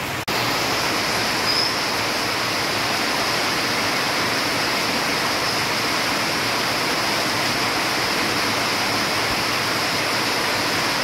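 Heavy rain pouring down in a steady, even hiss. The sound drops out for an instant just after the start, then runs on unchanged.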